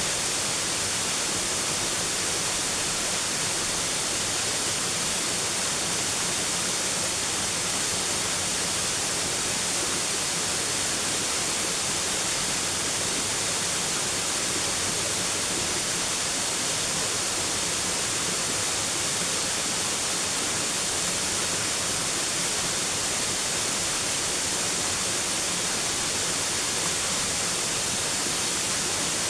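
Steady, unbroken hiss-like rushing noise, even in level throughout and strongest in the high range, with a faint steady high tone beneath it.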